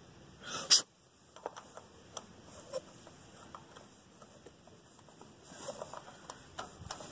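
Scattered light clicks and taps of a new distributor rotor button being fitted onto the shaft of an old Ford tractor's distributor by hand, with one louder scrape and click just under a second in.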